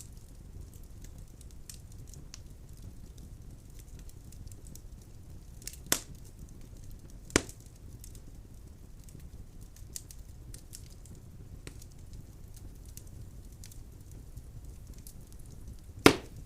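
Wood fire burning in a fireplace: a steady low rumble of flames with faint crackling, and three loud sharp pops of the logs, one about six seconds in, another a second and a half later, and the loudest near the end.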